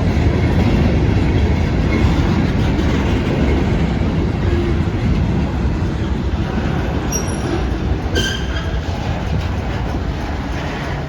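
Train rolling past, its wheels rumbling and clattering on the rail joints, slowly growing quieter, with a few short wheel squeals about two-thirds of the way through.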